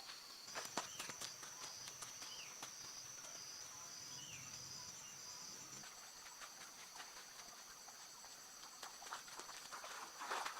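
Insects calling steadily in a high pitch, with a second, pulsing insect call for a few seconds in the first half. Scattered faint clicks and a couple of short bird chirps.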